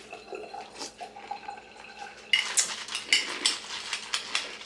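A spoon clinking and scraping against a bowl of cereal and milk: a quieter stretch, then a run of sharp clinks from about halfway through.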